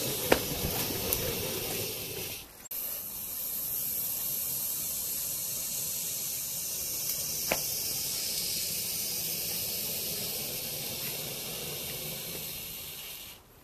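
Firework fountain hissing steadily as it sprays sparks, with a few sharp crackles in the first second and another about halfway through. The hiss breaks off briefly between them.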